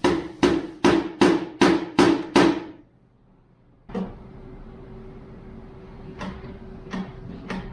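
A quick run of about seven hammer blows, evenly spaced at roughly two and a half a second. After a pause of about a second there is one more blow, then a few lighter, spaced-out taps.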